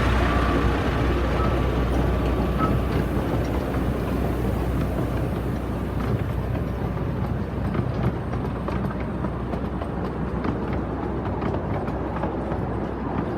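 Miniature railway train running along the track, its wheels clicking over the rail joints, the clicks coming more often in the second half.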